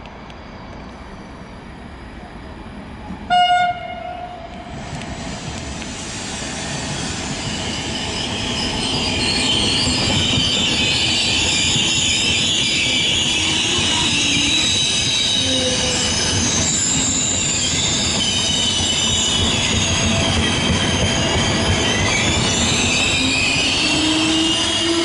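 Intercity train hauled by an E414 electric locomotive sounds one short horn blast about three seconds in. Its coaches then run past loudly on the rails, with high-pitched squealing from the wheels.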